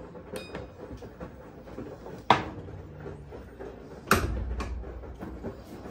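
Washing machine lid being handled: a light click near the start, a sharp knock about two seconds in, then a heavier thud with a low rumble after it.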